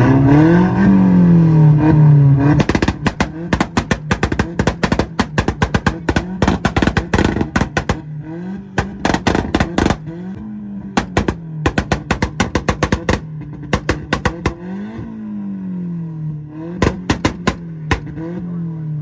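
Volkswagen engine revving, then held on a two-step launch limiter from about two and a half seconds in. It lets off rapid strings of loud exhaust pops and bangs in bursts while the revs bounce up and down, and the popping stops near the end.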